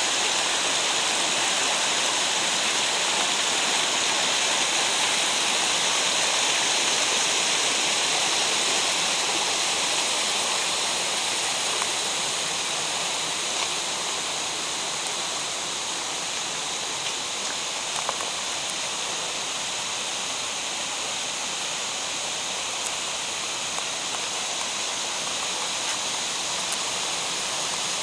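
Steady rushing water of a mountain gorge stream, with cascades, easing slightly about halfway through.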